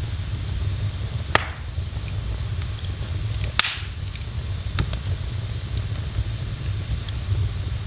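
Wood fire burning in a fireplace: a steady low rumble with sharp crackling pops, one about a second and a half in and the loudest about three and a half seconds in.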